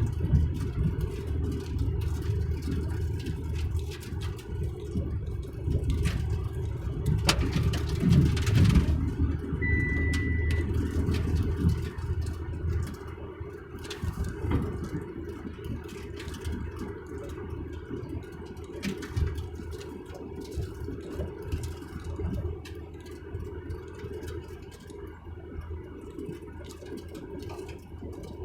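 A moving road vehicle's engine and tyre noise makes a steady low rumble. A louder noisy stretch comes about a quarter of the way in, and a brief high beep about ten seconds in.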